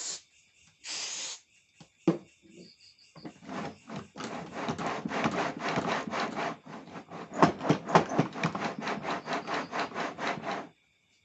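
Hand tool working wood: a couple of short strokes near the start, then a long run of rapid back-and-forth scraping strokes, several a second, from about three seconds in until shortly before the end.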